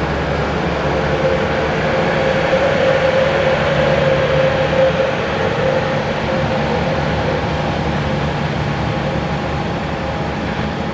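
Jet airliner engines running: a loud, steady rush of noise with a held whine through it that swells slightly a few seconds in.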